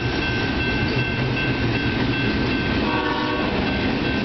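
Union Pacific double-stack intermodal freight train's container well cars rolling past close by: a steady rumble and clatter of steel wheels on rail, with a faint steady high whine over it and a brief pitched tone about three seconds in.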